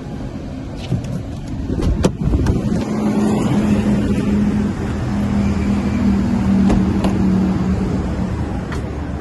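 Mazda 3's 1.5-litre four-cylinder petrol engine running, raised to a higher speed a couple of seconds in and held steady for several seconds before easing back. A few sharp clicks or knocks sound along the way.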